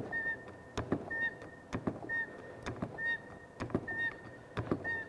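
Hand-pumped hydraulic pipe bender being pumped, each stroke of the handle giving a short high squeak and a knock, about once a second, as the ram forces a galvanized pipe round the former.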